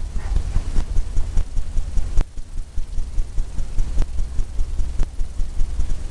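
Paintbrush rapidly tapping and dabbing oil paint onto a canvas on an easel: a quick run of dull low thumps, about four to five a second, with a few sharper knocks.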